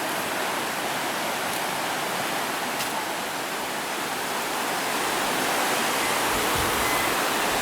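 Steady rushing noise, even and hiss-like, growing slightly louder about two-thirds of the way through, with a low thud near the end.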